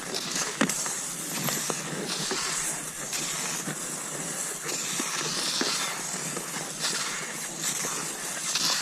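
Cross-country skis swishing over snow in a steady striding rhythm, a hiss that swells about once a second, with scattered light clicks.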